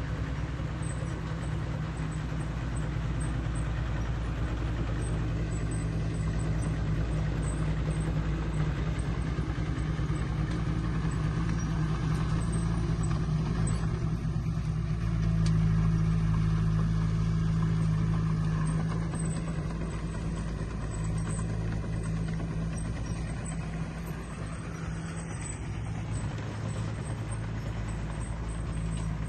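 Heavy equipment's diesel engine running steadily with a deep, continuous drone, working harder and louder for a few seconds around the middle before easing back.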